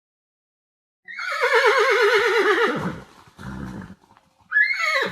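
A horse whinnying: a long quavering neigh that falls away at the end, then a short lower, breathy sound, and near the end a brief call that rises and then drops steeply.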